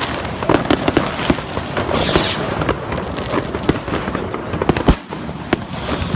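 Fireworks going off: a dense run of crackling pops and bangs, with a hissing burst about two seconds in and one sharp, loudest bang just before five seconds.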